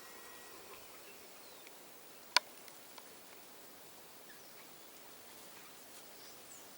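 Quiet outdoor ambience with faint, scattered bird chirps, and one sharp click about two and a half seconds in.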